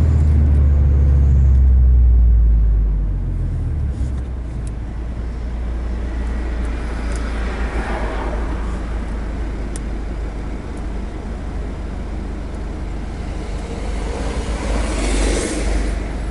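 Mazda MX-5 NC four-cylinder engine pulling steadily, heard from the open-top cabin. Its low drone eases off about three seconds in and gives way to a quieter engine hum mixed with road and wind noise, which swells again near the end.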